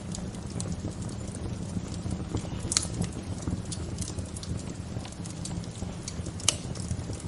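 Wood fire crackling: irregular sharp pops and ticks over a steady low rumble, with two louder snaps, about three seconds in and again near the end.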